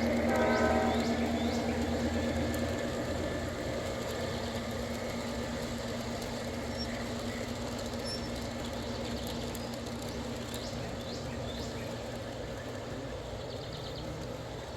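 G-scale model train running on an outdoor layout: a steady mechanical hum that slowly gets quieter, as if the train is moving away.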